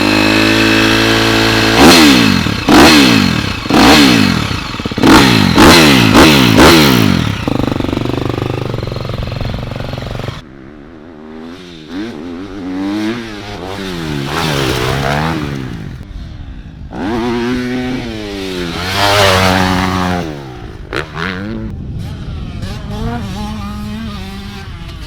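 Pit bike engine revving hard again and again, its pitch climbing and dropping with the throttle. From about ten seconds in it is quieter, still rising and falling as it rides the track.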